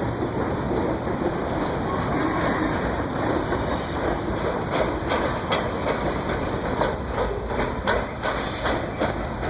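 Loaded coal train cars rolling past, a steady rumble of steel wheels on rail. From about halfway through, the wheels clack over rail joints in repeated sharp clicks.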